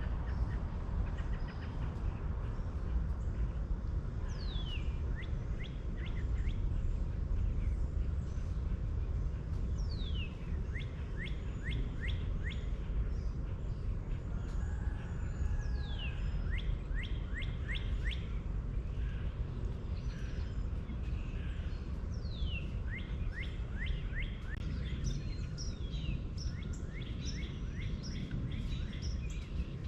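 A songbird singing the same phrase every five or six seconds: one long down-slurred whistle followed by a quick run of five or six short rising notes. A steady low rumble runs underneath.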